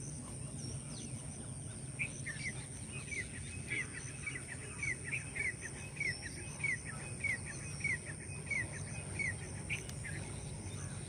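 A bird calling in a long series of short, falling notes, about two a second, starting about two seconds in and stopping shortly before the end. Beneath it runs a steady low outdoor background noise and a thin, steady high-pitched whine.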